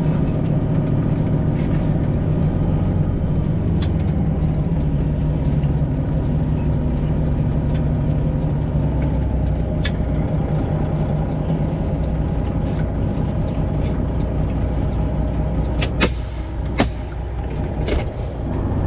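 Semi truck's Detroit Diesel 12.7-litre engine running steadily with a low drone. A few sharp clicks come near the end.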